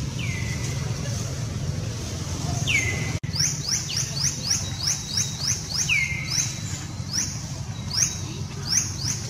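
Birds chirping outdoors: a few single falling notes, then from about three seconds in a quick series of short rising-then-falling chirps, about three a second, over a steady low background rumble. The sound cuts out for an instant just before the run of chirps begins.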